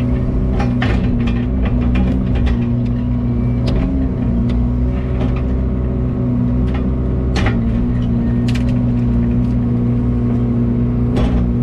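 Excavator's diesel engine running at a steady speed, with scattered sharp clanks and cracks over it.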